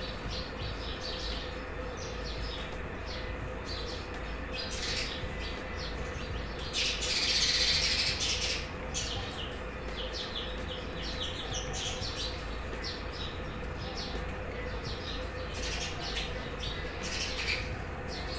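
Small birds chirping repeatedly over a faint steady hum. About seven seconds in, a louder hiss lasts a second or so.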